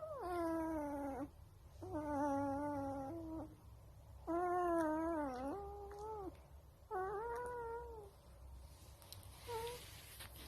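Wolf pup howling: four drawn-out, high-pitched calls of a second or two each, separated by short pauses, then a short call near the end.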